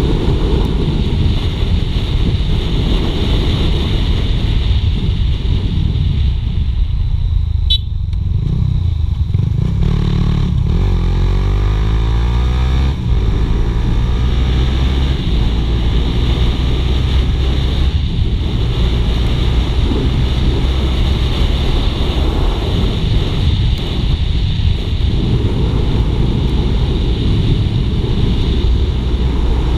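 Suzuki GSX-R150's single-cylinder engine running at speed, heard from on the moving bike under heavy wind buffeting on the microphone. A little over a third of the way in the engine note drops back briefly, then climbs as the bike accelerates again.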